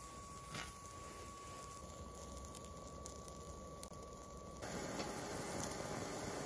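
A BioLite camp stove burning with its fan running: a steady hiss and low rumble with a thin, steady whine. Some way past halfway the hiss grows louder and the whine drops out.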